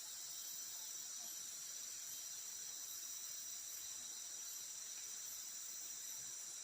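A steady chorus of forest insects such as crickets: a continuous high shrill, with a faint regular pulsing in its highest notes.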